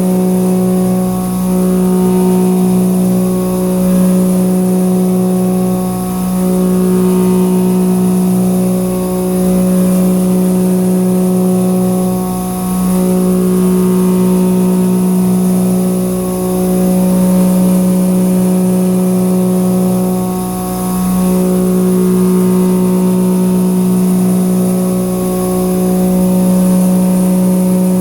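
Three-flute indexable shoulder mill cutting carbon steel on a CNC milling machine: a loud, steady humming tone whose loudness dips briefly every few seconds, over a hiss from the cold-air cooling blast.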